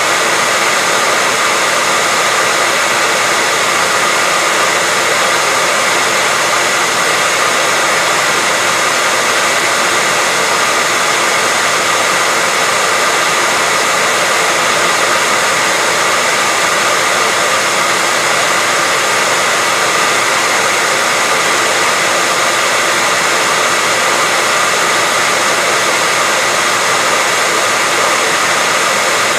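Hair dryer running steadily: a constant blowing hiss with a faint steady whine, with no change in speed or pitch.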